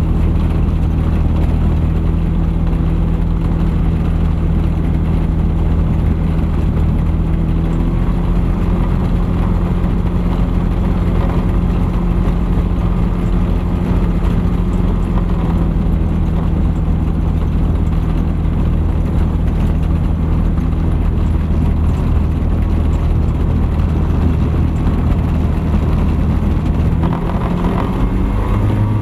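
Thruster ultralight aircraft's engine and propeller running steadily. The engine note shifts near the end as the power changes.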